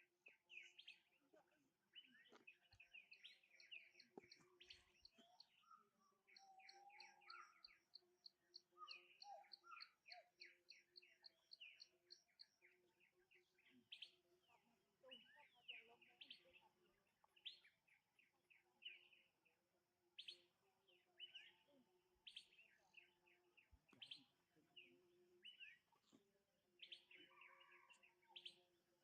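Faint chirping calls: many short, high chirps and squeaks, with a fast, evenly repeated trill of notes from about six to twelve seconds in, over a low steady hum.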